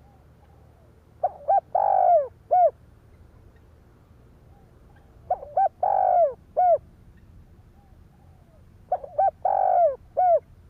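Spotted dove cooing: three phrases about four seconds apart, each two short notes, then a longer drawn-out coo that falls slightly, then a short last note.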